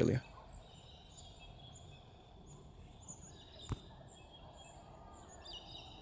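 Faint songbird chirping: short high chirps repeating about twice a second, with a single sharp click about three and a half seconds in.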